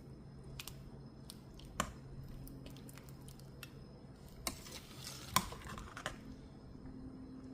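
Faint kitchen handling sounds: a few light clicks and knocks of utensils and dishes, the sharpest about two, four and a half and five and a half seconds in, over a low steady hum.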